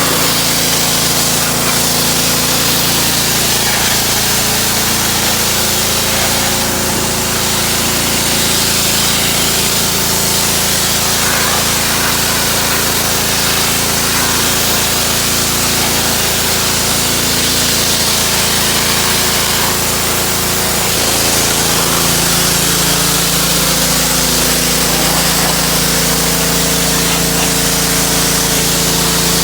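Pressure washer running and spraying: a steady motor hum under the hiss of the water jet, the hum changing pitch about two-thirds of the way through.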